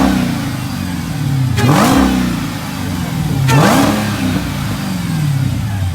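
Car engine with a K&N cold air intake and catless exhaust being blipped at idle: three quick revs about two seconds apart, each rising sharply and then falling back to idle, with intake noise audible.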